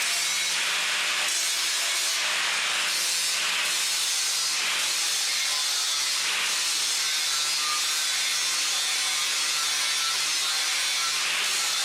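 Linisher grinding a chamfer on the edges of steel plates and RSJ beams as weld prep: a steady abrasive hiss over the motor's hum, swelling with each pass about once a second in the first half.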